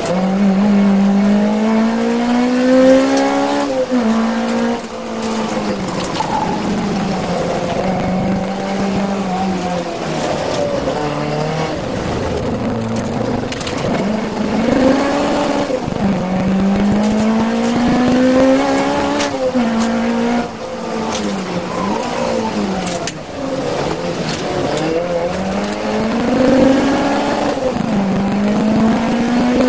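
Peugeot 205 rally car's 1.6-litre 16-valve four-cylinder engine driven hard. Its revs climb again and again and drop sharply at each gear change or lift, several times over.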